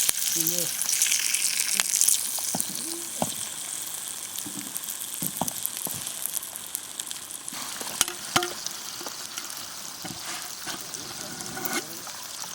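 Steak sizzling on hot lava stones over a fire pit: a steady hiss, louder for the first two seconds and then settling lower, with scattered sharp pops.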